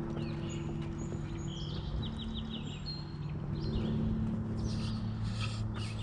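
Several songbirds chirping and calling, with short whistled notes and a quick trill of about five notes, over a low steady hum.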